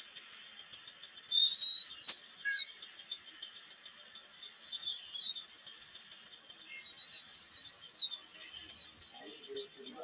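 A bird giving four drawn-out, high whistled calls, each about a second long with a slightly wavering pitch, over a faint hiss. A single sharp click comes about two seconds in.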